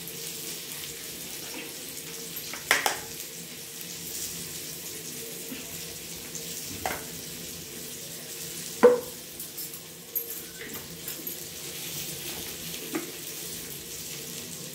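Steady sizzle of onion and capsicum frying in a pan, with a few sharp clicks of a steel spoon knocking against a plastic bowl, the loudest about nine seconds in.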